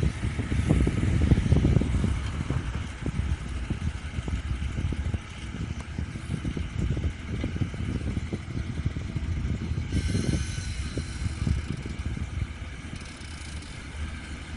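Case IH Puma 140 tractor's diesel engine running under load while driving a Hurricane rotary ditcher, with a steady mechanical rumble and clatter. About ten seconds in, a higher whine joins.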